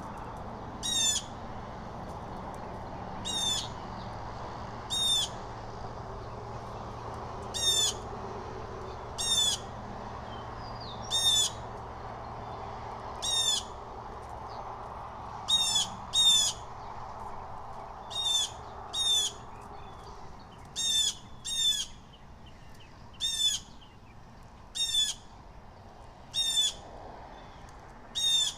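A bird's short, clear, down-slurred call repeated every one to two seconds, sometimes doubled, over a steady background rush that drops away in the second half.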